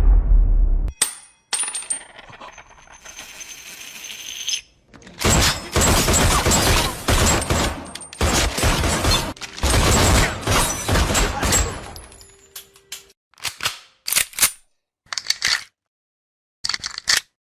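A series of gunshot sound effects. A heavy shot with a low, fading tail at the start, a stretch of dense rapid fire from about five to twelve seconds in, then several short single shots near the end.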